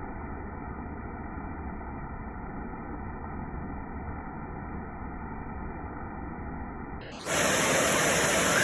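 Steady hiss of rain, dull and muffled at first. About seven seconds in it switches abruptly to a louder, brighter rush.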